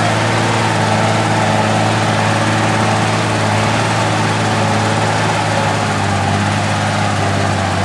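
Truck's diesel engine running at a steady, even speed, with a constant low hum and a rushing noise over it.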